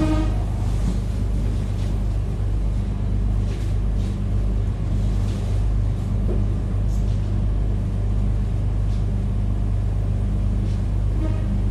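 Inside a moving passenger train: a steady running rumble with a constant low hum.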